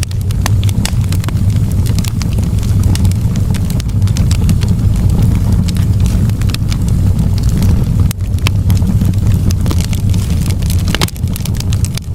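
Fire in a fireplace crackling: frequent sharp, irregular pops over a steady low rumble.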